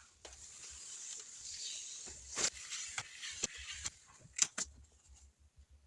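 Paper being handled in a paper-craft build: a rustling hiss for about four seconds with several sharp clicks and snaps through it, then a few fainter ticks.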